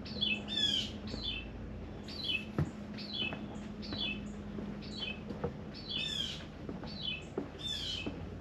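Songbird calling over and over: short, falling chirps about twice a second, broken three times by a harsher, raspy call.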